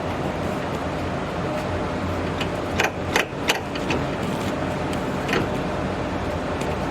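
Steady mechanical hum with a few sharp metallic clicks a little before halfway and one more after the middle: hand tools clinking on the outer tie rod end and its jam nut.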